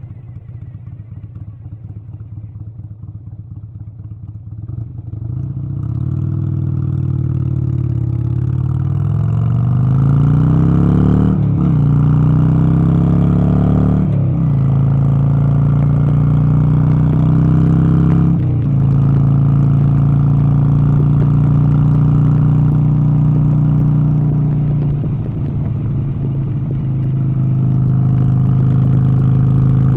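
A vehicle engine running low at first, then revving up several times, its pitch climbing and dropping sharply three times, then holding steady.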